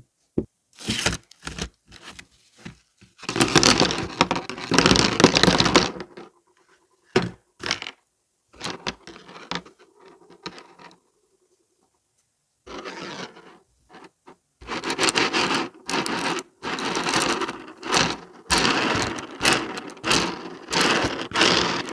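A pencil being sharpened: scraping passes of a few seconds each, broken by short knocks and clicks and a brief pause about halfway through.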